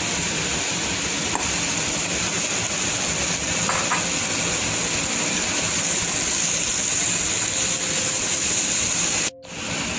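Boiled chicken pieces sizzling steadily in hot oil with frying onion, garlic and ginger paste in a nonstick pan. The hiss cuts out abruptly for a moment near the end.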